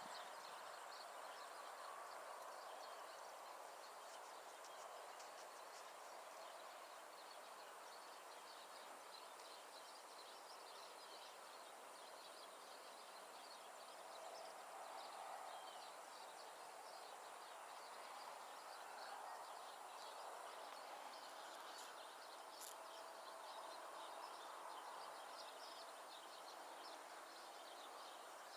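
Faint outdoor background noise, steady throughout, with many small faint chirps scattered over it.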